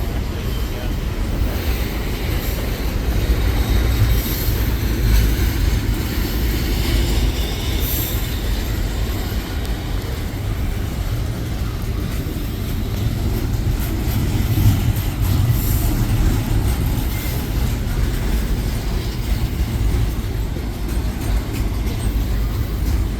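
A train rolling past: a steady rumble of wheels on the rails, with faint high-pitched wheel squeal and scattered clicks.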